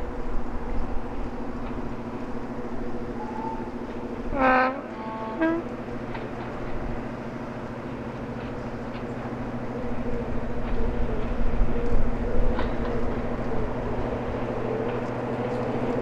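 Class 55 Deltic diesel locomotive's twin Napier Deltic two-stroke engines running with a steady drone, growing louder over the last few seconds. About four and a half seconds in the locomotive sounds its two-tone horn briefly, a high note then a lower one.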